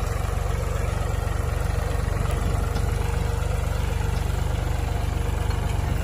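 Tractor engine running steadily at a constant speed, a low even rumble that neither revs up nor dies down.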